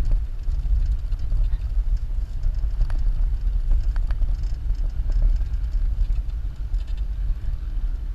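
Jeep driving over sand dunes, heard from inside: a loud, uneven low rumble from the engine and driveline, with a few faint knocks and rattles.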